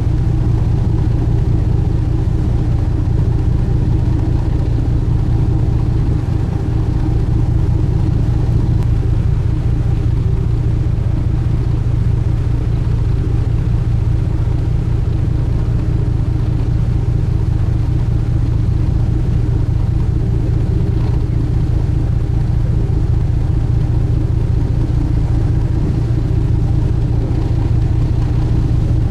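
Sightseeing cruise boat's engines running at a steady cruising speed, a constant low drone with a deep hum, heard on board.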